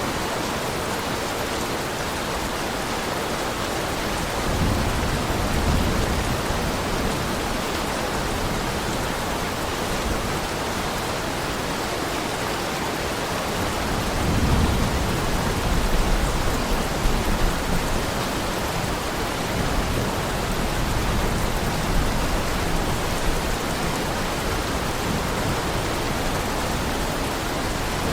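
Heavy rain falling with a steady hiss. Low rumbles of thunder swell twice, about five seconds in and again around fifteen seconds in, each lasting a few seconds.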